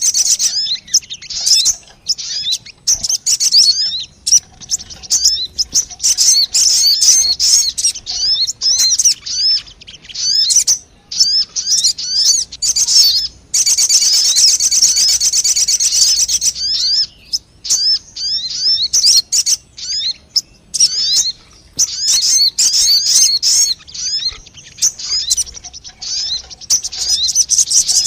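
Sogon bird lure call: rapid, high-pitched chirping and trilling in fast bursts, with short pauses between phrases and a few dense stretches of continuous twittering. It is a recorded call loop played to draw wild birds in.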